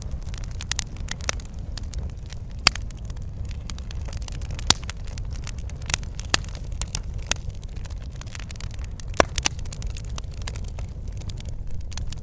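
Wood fire burning in a fireplace: a steady low rumble of flame with irregular crackles and sharp pops, a few of them loud.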